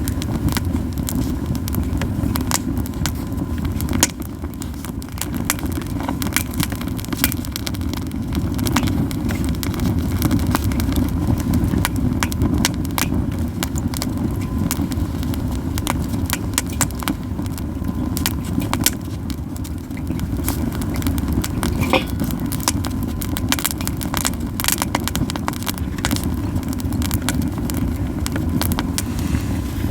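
Yew wood burning in a campfire, crackling and popping with frequent sharp snaps over a steady low rushing sound.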